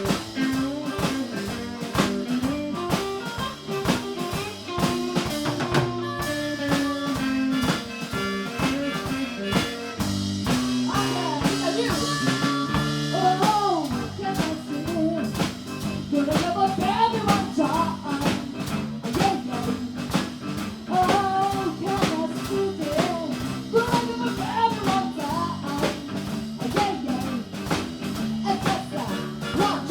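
Live blues band playing, with a drum kit keeping a steady beat under guitar and bass. From about halfway through, a lead line of bending notes comes in over the band.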